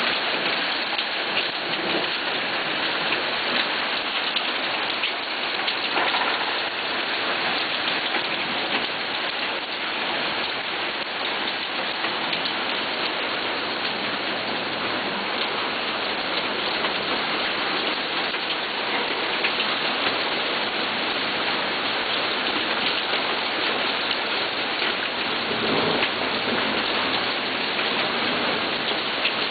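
Steady rain falling, an even hiss dotted with the ticks of many individual drops.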